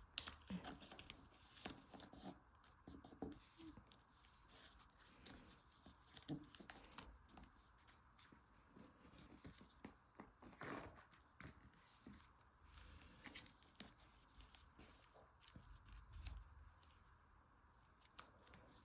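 Origami paper being folded and pressed into creases by hand: faint, irregular rustling and crinkling with small clicks.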